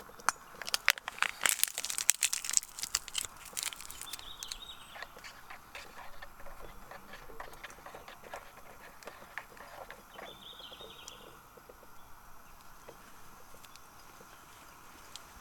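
A run of sharp crackles and rustles, dense for the first few seconds and then scattered, with a couple of short bird chirps, one about four seconds in and one near ten seconds.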